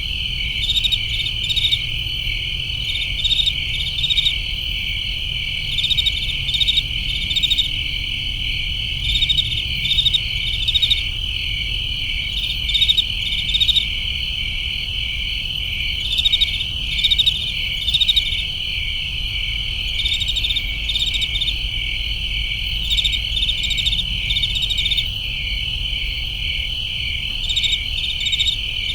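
A night chorus of crickets: a steady high trill runs underneath, with louder pulsed chirps coming in short bursts every second or two. A low steady rumble lies beneath the insects.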